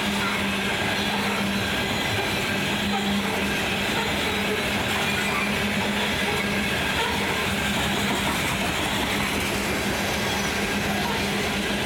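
Coal train hopper cars rolling past at speed: a steady rumble and clatter of steel wheels on rail, with a low hum and a thin, faint high wheel whine running through it.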